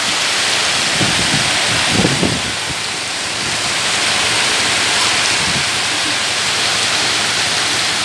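Heavy rain falling steadily, a dense hiss, with a few short low splashes or knocks about one to two seconds in.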